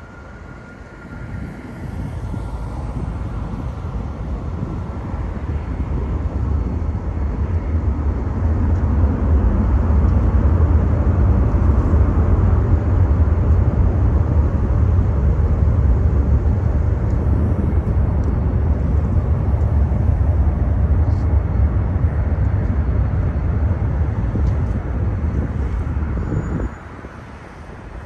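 Airbus A350-1000 jet airliner with Rolls-Royce Trent XWB engines on landing approach: a deep rumble that grows louder over about ten seconds as it comes in, holds, then drops off suddenly near the end.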